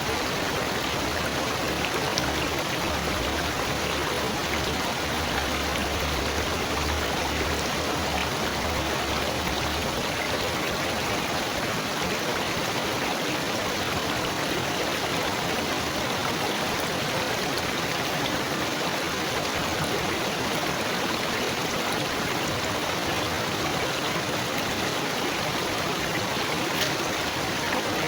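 Steady gurgling of gently flowing, trickling water, like a small stream.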